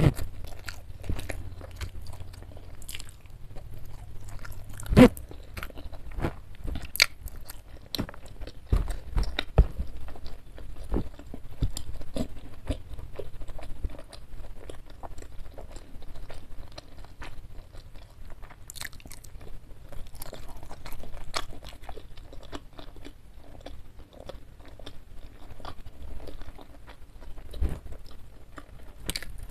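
Close-miked chewing and crunching as jengkol curry with crispy fried-chicken crumbs (kremes) is eaten by hand, with irregular crunchy bites, the loudest about five seconds in.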